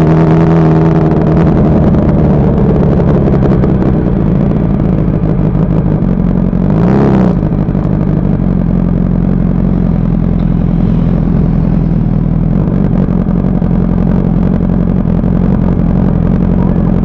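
Honda CBR Fireblade's inline-four engine running at low revs as the bike rolls slowly. The revs ease down in the first couple of seconds, and there is a brief rise and fall in revs about seven seconds in. After that it settles into a steady low drone.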